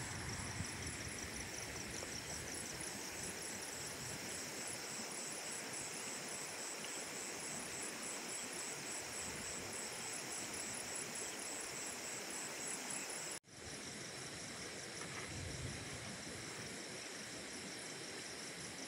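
Night outdoor ambience: a steady hiss with insects chirping in a fast, high-pitched pulsing chorus. The chirping stops abruptly at a cut about 13 seconds in, leaving only the steady hiss.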